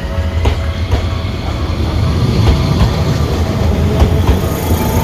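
Tokyu Setagaya Line streetcar running on its rails: a steady heavy rumble with a faint steady hum and a few sharp clicks of the wheels over rail joints.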